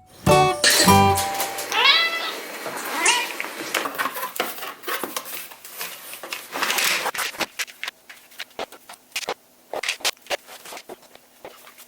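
A Scottish Fold cat meows twice, about two and three seconds in, each call bending up then down in pitch. Guitar music runs out in the first second, and light clicks and taps follow through the rest.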